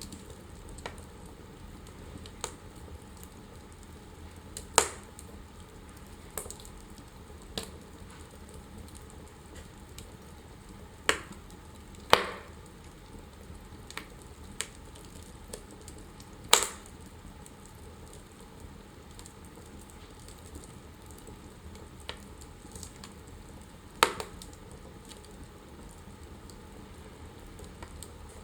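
Wood fire crackling in a fireplace: a low steady hiss of flame with scattered sharp pops and ticks, about five of them loud.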